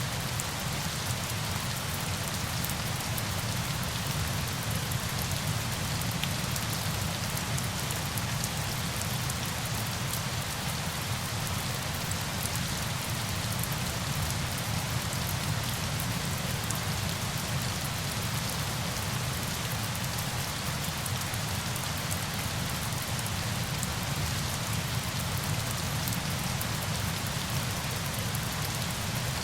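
Steady, unchanging falling-water ambience, a dense hiss with faint fine patter, used as a sleep sound.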